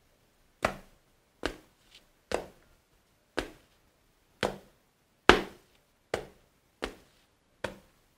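Footsteps climbing stairs: nine single, evenly paced steps, a little under one a second, with complete silence between them.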